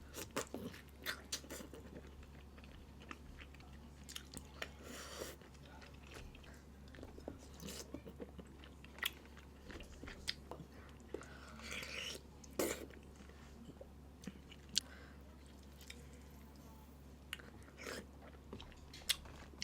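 A person eating seafood boil close to the microphone: chewing and biting, heard as scattered, irregular short mouth sounds, with a steady low hum underneath.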